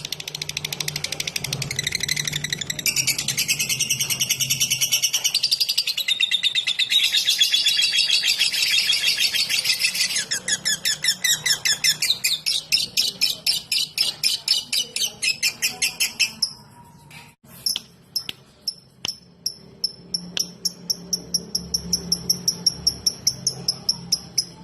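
Lovebird singing its rapid 'ngetik' song, a fast unbroken chatter of high chirps, for about sixteen seconds before it cuts off abruptly. After the break comes a regular series of short, high chirps about three a second.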